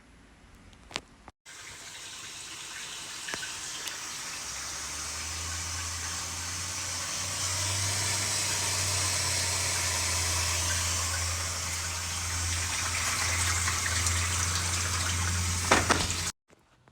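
Water gushing into a washing machine through a newly replaced water inlet valve and fill hose, growing louder, with a low steady hum joining about four seconds in. It cuts off abruptly near the end.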